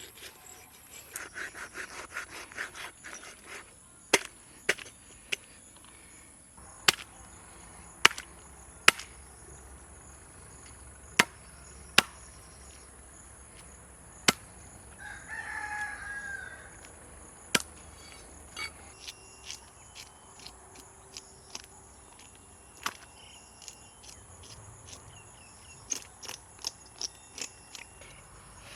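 Heavy knife chopping through a whole fish on a cutting block: single sharp knocks at uneven intervals a second or two apart, then a quicker run of lighter knocks near the end.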